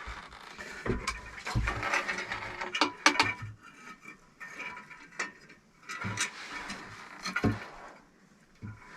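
Irregular scraping, knocks and sharp clicks of hand work with bricks and mortar, busiest in the first half and quieter near the end.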